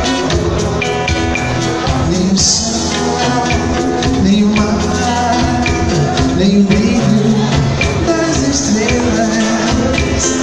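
A band playing a Brazilian pop song, with a steady drum groove, bass and guitar and a gliding melody line over them; cymbal crashes about two seconds in and near the end.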